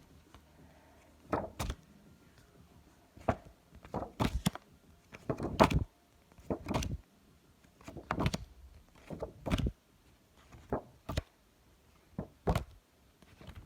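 A pack of phonics flashcards being flipped through one card at a time, each card giving a short papery slap or flick at irregular intervals of about a second.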